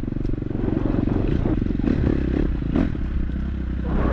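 KTM 250 dirt bike engine running steadily under way, with a few knocks and rattles from the bike over the trail.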